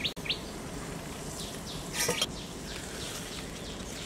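Small birds chirping over a steady background hiss, with a short clatter about two seconds in.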